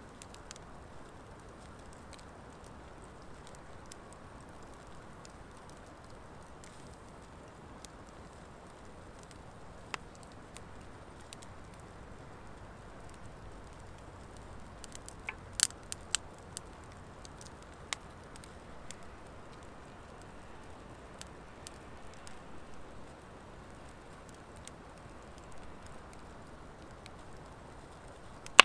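Wood fire of driftwood and dry hardwood logs burning with a steady low hiss and sparse sharp crackling pops, several close together about halfway through.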